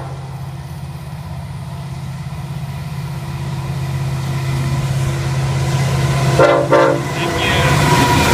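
Approaching diesel freight locomotives, their engines droning low and growing steadily louder; about six and a half seconds in, one short toot of the lead locomotive's horn.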